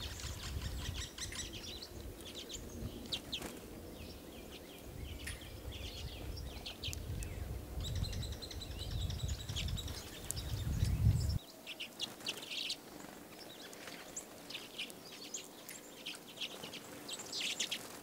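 Redpolls calling: many short, high chirps and twitters throughout. A low rumble underneath cuts off suddenly about eleven seconds in.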